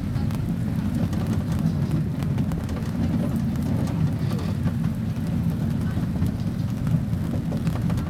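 A zoo's park train running, heard from on board: a steady low rumble with faint scattered clicks.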